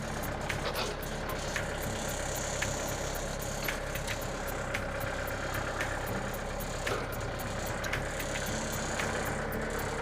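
Mahindra tractor's diesel engine running steadily, at or near idle, with a scatter of light clicks over it.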